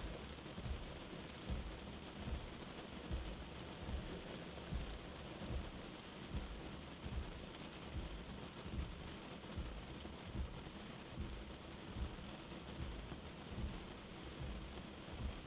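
Steady rain falling, an even hiss of drops, with a soft low thud recurring about every 0.8 seconds underneath.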